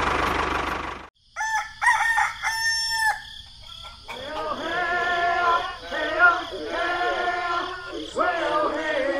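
A tractor engine runs for about a second and then cuts off abruptly. A rooster crows, followed by a few seconds of high-pitched, squeaky chattering calls.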